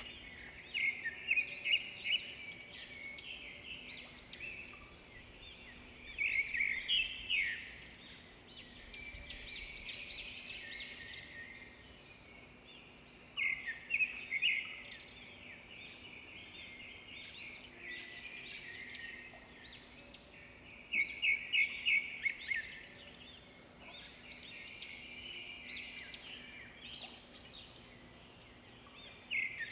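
Birds calling: bursts of rapid, chattering high notes every few seconds, the loudest groups about 1, 7, 14 and 21 seconds in, over a faint steady low hum.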